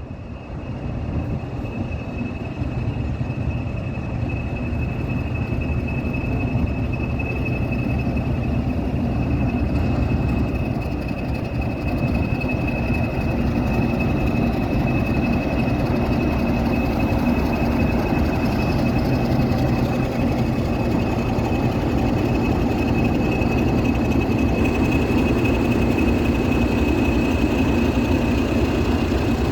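Diesel locomotives D345 (a Class 40) and 37669 (a Class 37) running on a light engine move, a steady low engine rumble with a continuous high whistle over it.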